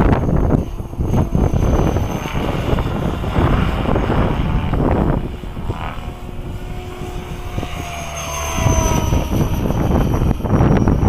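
Strong wind buffeting the microphone in gusts, with a 550-size electric RC helicopter's motor and rotor whine heard through it, its pitch sliding up and down as it flies. The whine stands out in a lull in the gusts about halfway through.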